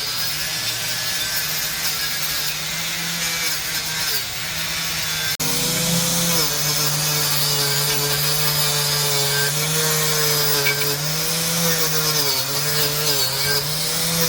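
A motor running steadily over a rasping, grinding noise, its hum dipping and shifting in pitch as it works. It breaks off sharply about five seconds in and comes back stronger.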